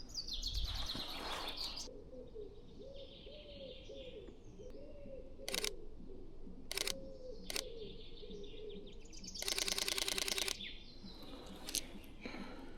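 Sony A6700 camera shutter firing: a few single clicks, then a rapid burst of even clicks lasting about a second, near the end a single click again. Birds sing faintly behind it, with a low call repeated again and again through the middle.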